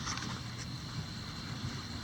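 Steady storm wind with a low rumble, under a faint thin high whine.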